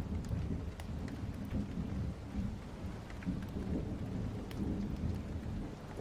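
Thunder rumbling low and continuous over steady rain, with scattered small sharp clicks.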